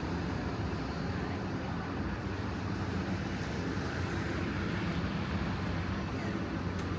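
Steady road traffic noise from a busy city street, a continuous low rumble of passing cars.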